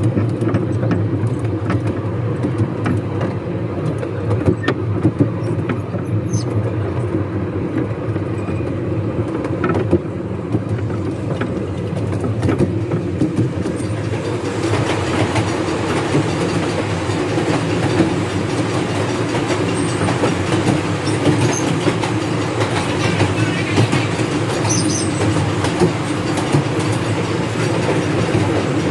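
Miniature railway train running along its track, heard from aboard: a steady rumble of wheels on rail with clickety-clack over the rail joints, growing louder about halfway through.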